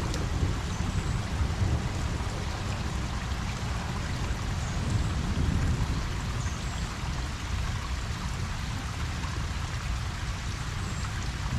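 Steady rain falling on a pond's water surface, with a low rumble underneath.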